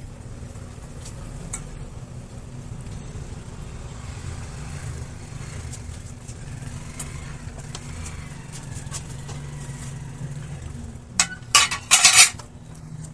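Cooking in a pot: a steady low rumble with scattered small clicks, then a quick run of loud metal clatters about eleven seconds in, a utensil knocking against the pot.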